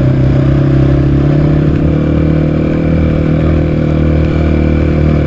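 Honda XR650R single-cylinder four-stroke dirt bike engine running at a steady, even pace while the bike is ridden along a dirt road.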